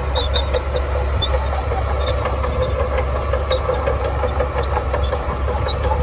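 Shantui DH17C2 bulldozer's diesel engine running steadily with a low drone, along with scattered light clicks and short high squeaks from the machine.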